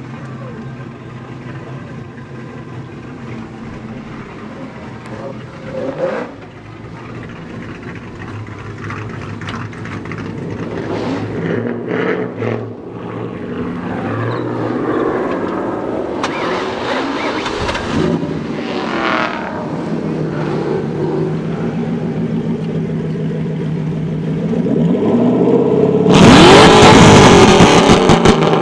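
Lincoln Navigator V8 swapped into a Ford Mustang, running with the engine revved several times. The revs climb in the middle, and a loud hard rev comes near the end.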